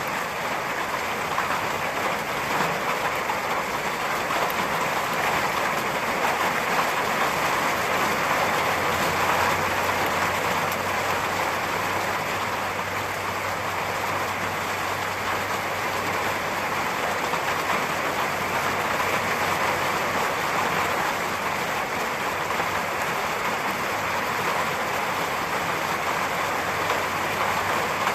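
Steady rain falling on a hard surface, an even hiss of drops with no break and no thunderclap.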